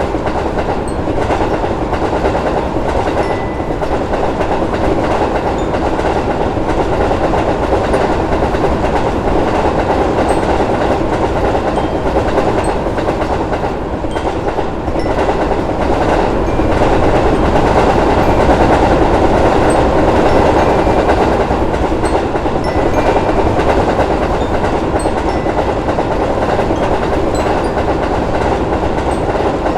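A train running along the track: a steady rumbling noise that cuts in suddenly at the start and swells slightly about midway.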